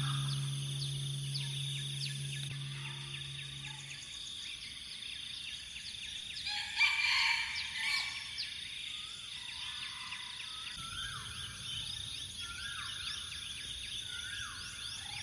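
Roosters crowing, one louder crow about seven seconds in and several shorter, fainter calls after it, over a steady high drone of insects. Background music fades out in the first few seconds.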